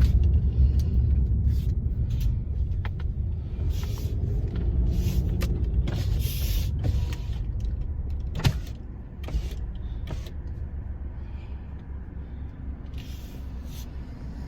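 Car interior noise while driving: a steady low rumble of engine and road that grows quieter about two-thirds of the way through, with a single sharp knock just before.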